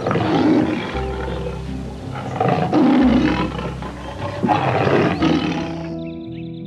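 Lion roaring in three deep calls about two seconds apart, over background piano music.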